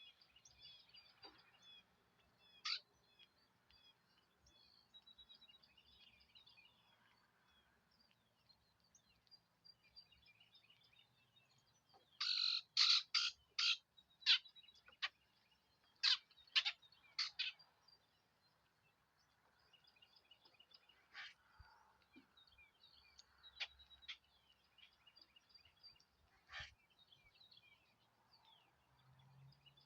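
Small birds chirping, faint and high-pitched throughout, with a run of about eight loud, sharp chirps in quick succession around the middle and a few single louder chirps later.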